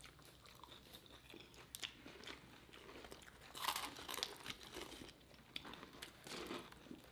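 Faint crunchy bites and chewing of spicy fried chicken, with louder crunches about three and a half seconds in and again near the end.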